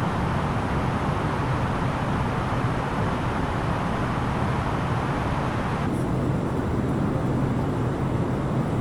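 Cabin noise inside an Airbus A330-900neo airliner in flight: a steady rush of airflow over a low engine drone. About six seconds in, the higher hiss drops away suddenly.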